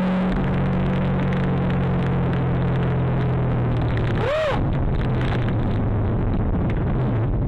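Car on the move: steady engine drone and loud road noise. About four and a half seconds in there is a brief pitched tone that rises and falls.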